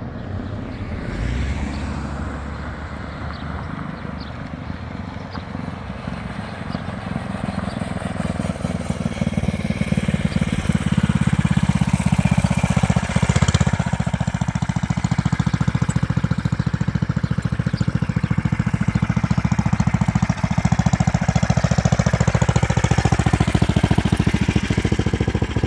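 Predator 420 single-cylinder engine of a recumbent motorcycle running, getting steadily louder for about the first half and then staying loud and steady. The engine is short of fuel, which the riders put down to carburettor jets too small for its aftermarket air filter and exhaust.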